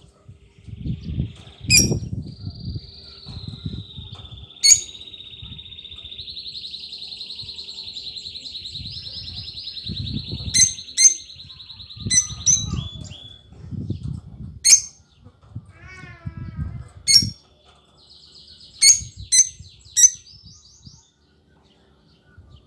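Small cage bird chirping: sharp single chirps come throughout, and one long, even, high trill runs from about two seconds in to about thirteen seconds. Irregular low bumping sounds run underneath.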